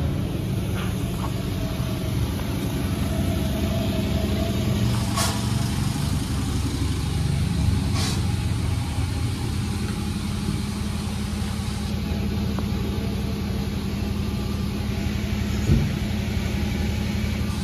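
Sawmill machinery running steadily with an even engine drone, broken by a few sharp knocks, the loudest one about three-quarters of the way through.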